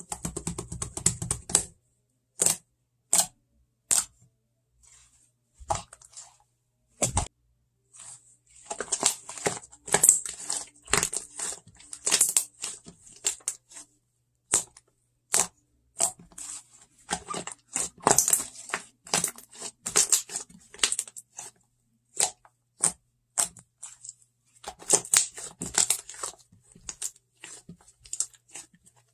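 Chocolate-themed slime being pressed and stretched by hand: irregular sharp clicks and pops with crackly, tearing stretches.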